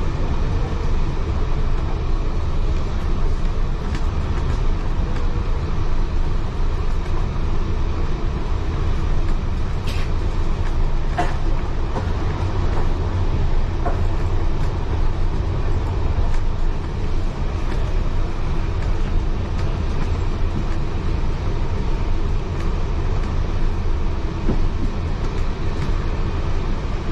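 Heritage railway passenger carriage running along the track, heard from inside: a steady low rumble of wheels on rails, with a few brief sharp clicks around the middle.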